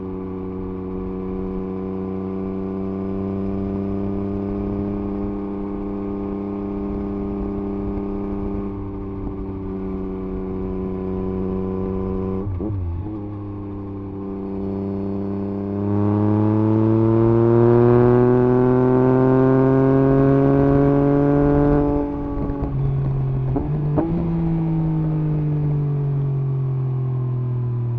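A 2021 Yamaha MT-09 SP's 890 cc inline three-cylinder engine through an Akrapovič exhaust with the dB killer removed, running steadily under way with a brief break about twelve seconds in. From about sixteen seconds it accelerates, loudest here, its pitch rising. Gear changes come at about twenty-two and twenty-four seconds, and then the pitch falls steadily as the bike slows.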